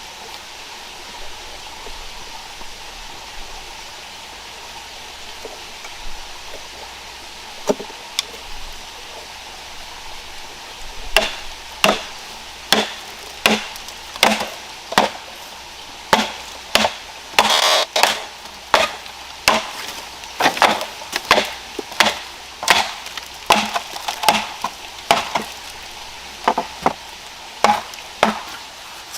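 Wood being chopped by hand with a bladed tool: a steady run of sharp chopping strikes, about one or two a second, that starts about a third of the way in after a couple of single strikes.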